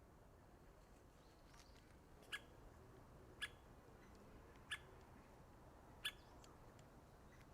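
White-backed woodpecker giving four short, sharp single call notes, spaced a little over a second apart, against faint background.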